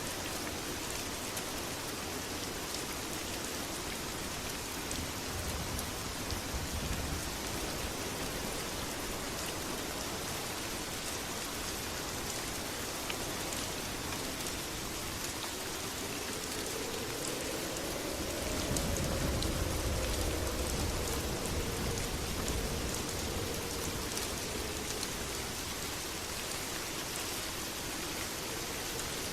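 Steady heavy rain falling and pattering. About two-thirds of the way through, a low rumble swells and then fades.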